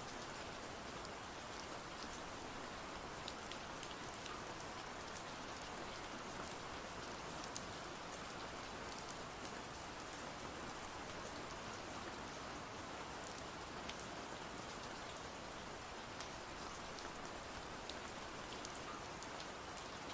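Steady rain falling, with scattered light ticks through the steady hiss.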